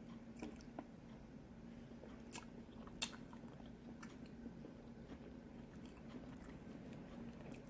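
Quiet chewing while eating snow crab legs, with scattered small clicks of the shells, the sharpest about three seconds in.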